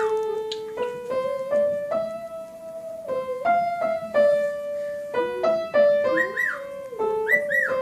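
Piano music playing a run of single notes. From about six seconds in, a cockatiel whistles short rising-and-falling notes over it.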